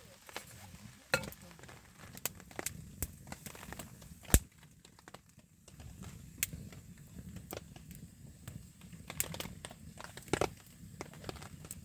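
Wood campfire crackling, with scattered irregular pops and snaps and one much louder pop about four seconds in.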